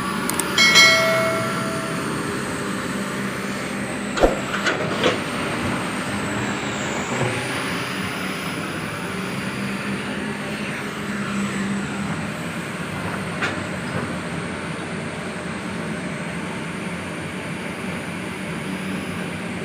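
Heavy-equipment diesel engine running steadily. A short high-pitched tone sounds about a second in, and a few sharp knocks come around four to five seconds in.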